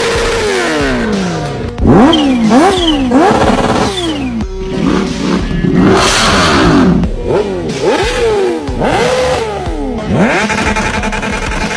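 High-revving sport motorcycle engines being revved hard, the pitch jumping up and falling back again and again, with music mixed in.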